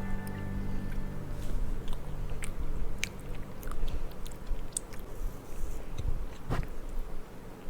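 Close-miked chewing of soft food, with scattered small wet mouth clicks.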